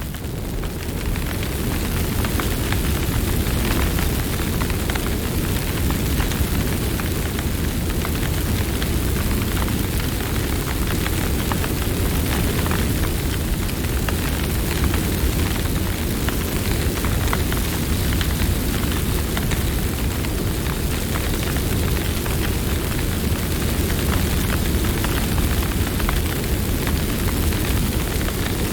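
Campfire burning: a steady deep rush of flames with frequent small crackles and pops from the burning wood.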